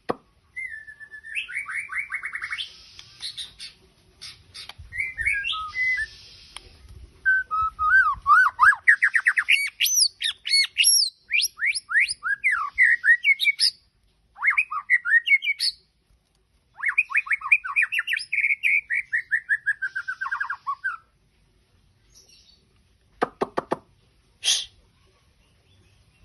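White-rumped shama (murai batu) singing vigorously: several long bouts of fast, varied trills and sweeping whistled phrases with short pauses between them, then a few short sharp calls near the end.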